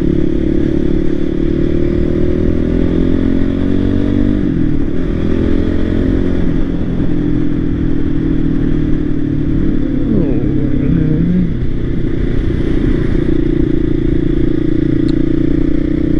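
Voge 300 Rally motorcycle's single-cylinder engine running at low speed, its note climbing over the first few seconds and dropping about four seconds in as the throttle is worked and gears change, then holding fairly steady.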